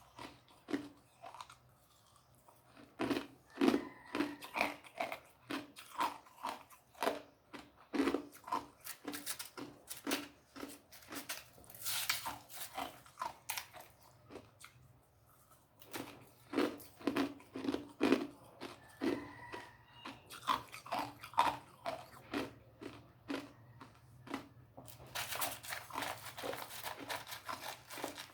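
A person biting and chewing ice cubes: a run of irregular, sharp crunches, several a second, with a couple of short pauses.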